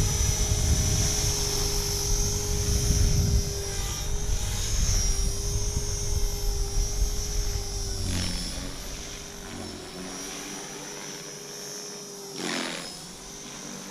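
Align T-Rex 450 electric RC helicopter in flight: a steady whine from its motor and spinning rotors, with a low rumble of wind on the microphone for the first few seconds. The sound grows gradually fainter through the second half as the helicopter comes down.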